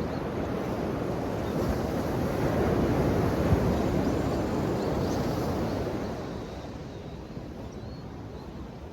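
Ocean waves washing onto a shore: one wave swells to a peak about three seconds in, then falls away and quiets after about six seconds.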